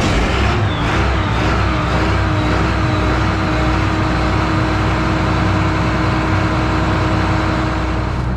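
Combine harvester's diesel engine running just after start-up, warming up; its pitch wavers for the first couple of seconds, then holds at a steady run.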